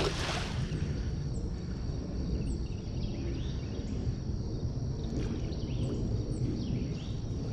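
Steady low outdoor rumble, with a short sharp burst of noise right at the start and faint high chirps scattered through.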